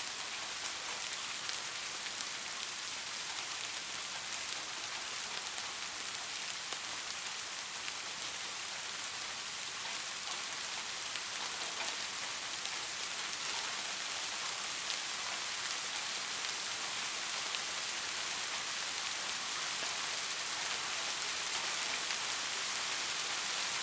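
Steady rain falling, a dense even hiss with scattered individual drop ticks, growing slightly louder toward the end.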